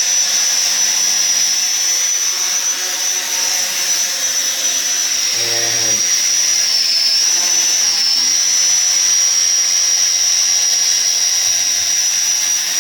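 Sky Viper v950 quadcopter's four small electric rotor motors whining steadily in flight; the pitch dips slightly and wavers a little past halfway, as the throttle is eased.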